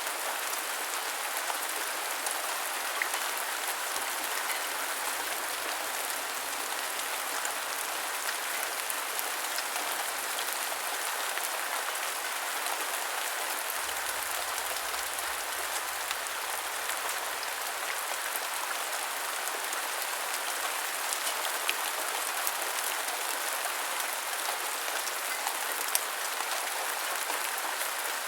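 Heavy rain falling steadily, a constant even hiss with scattered individual drop clicks.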